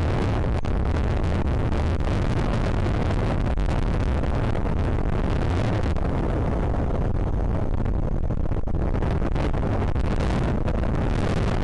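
Strong wind buffeting the microphone: a steady, loud low rumble with a gusty hiss over it.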